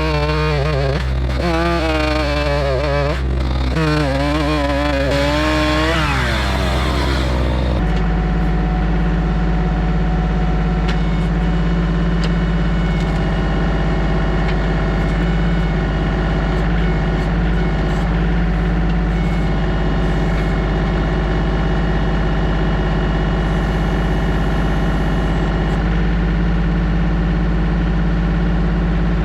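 LS MT232 compact tractor's diesel engine running hard while the backhoe hydraulics are worked on a heavy log. The engine note wavers up and down for about the first eight seconds, then settles to a steady run.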